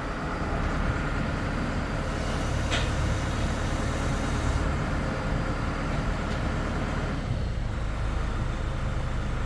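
Tractor engine running steadily in a low rumble, with a short sharp tick about three seconds in.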